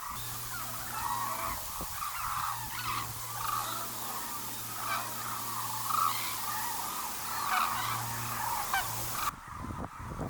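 A flock of migratory waterbirds calling, many short calls overlapping, over a steady low hum. The calls stop abruptly near the end as the sound changes.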